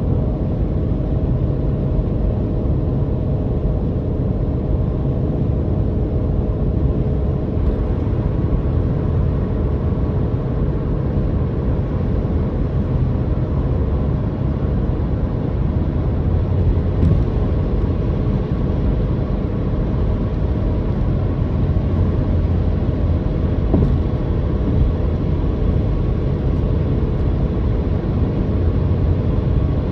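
Car engine droning steadily with a low road rumble while driving at an even pace, with a few faint light ticks.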